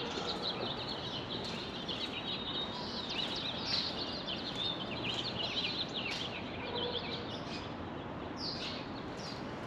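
Small birds chirping rapidly and continuously, many short high chirps overlapping, over a steady background noise.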